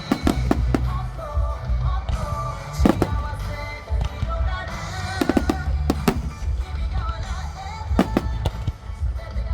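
Aerial fireworks bursting with sharp bangs over a deep rumble, while music with a melody plays. There are a few bangs right at the start, one about three seconds in, a quick cluster around five to six seconds, and two more near eight seconds.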